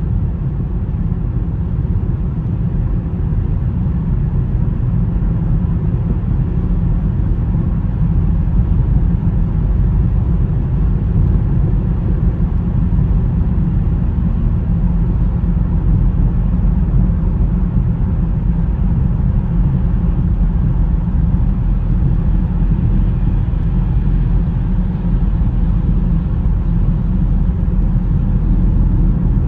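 Steady low rumble of a car driving on a snowy road: tyre, engine and wind noise with no breaks.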